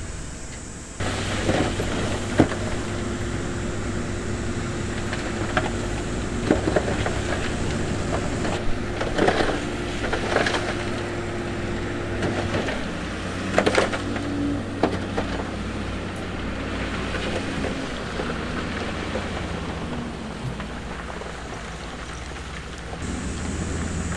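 Heavy diesel earthmoving machinery running steadily, with stones knocking and rumbling as rock is moved. The machine sound starts abruptly about a second in. Sharp rock knocks cluster between about five and sixteen seconds in.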